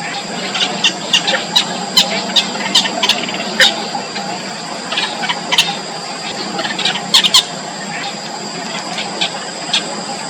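Four-day-old nestlings making begging calls: short, high-pitched squeaks in irregular bunches, over a steady high-pitched hum.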